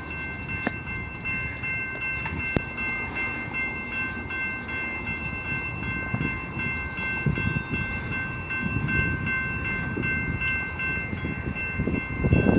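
Railroad grade-crossing signal bells ringing steadily, over the rising rumble of an approaching train that grows louder in the second half.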